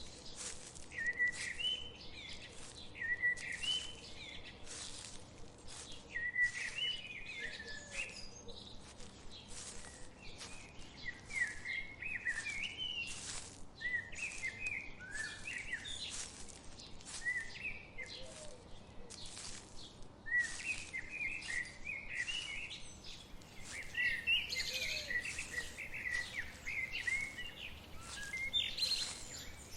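Songbirds chirping and singing in short repeated phrases, with several birds calling at once near the end. Frequent short ticks or patters run underneath over a faint steady hiss.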